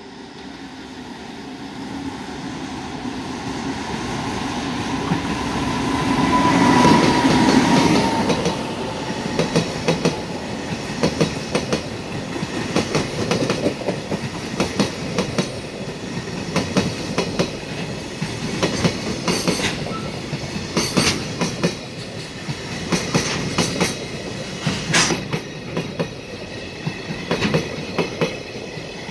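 A JR Freight EF510 'Red Thunder' electric locomotive running through on a high-speed container freight. It grows louder as it approaches and passes about seven seconds in, with a thin whine that drops in pitch as it goes by. Then a long train of container wagons rumbles past, its wheels clicking over the rail joints in repeated clickety-clack groups.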